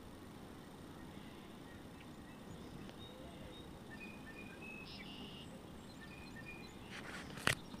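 Quiet outdoor ambience with a steady low rumble and scattered short, high-pitched bird chirps in the middle, then one sharp click near the end.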